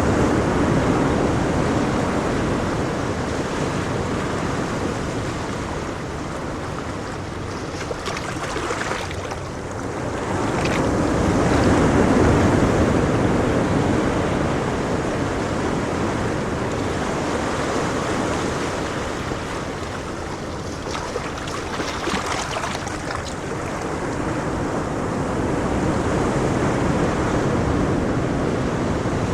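Ocean waves breaking and washing up the shore in slow swells, with the surf rising to a peak about twelve seconds in and again near the end.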